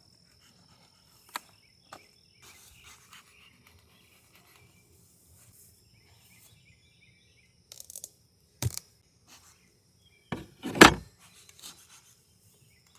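Scattered knocks and bumps from handling, in a cluster about eight seconds in and loudest about eleven seconds in, over quiet outdoor background with a faint steady high tone and faint chirps.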